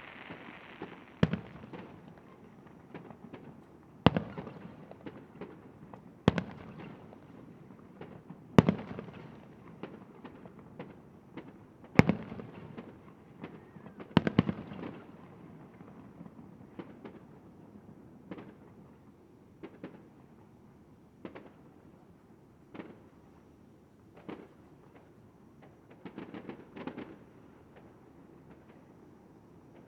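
Fireworks display: a series of sharp aerial shell bangs every two to three seconds, the loudest ones in the first half, followed by smaller, fainter bangs and a quick run of small pops near the end.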